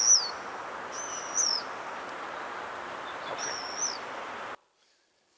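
Plain swift calls: long, very high-pitched screams, each held level and then dropping away at the end. There are three, over a steady background hiss, and the recording cuts off suddenly a little after four seconds in.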